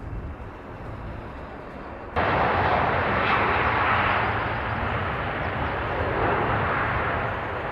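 Airplane engine noise, a steady rushing drone. About two seconds in it cuts abruptly from a quieter hum to a much louder roar.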